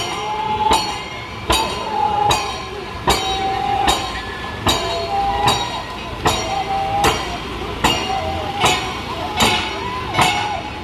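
Snake boat crew rowing in unison to a beat: sharp strikes land evenly about once every 0.8 s, with the crew's chanting voices held between the strikes.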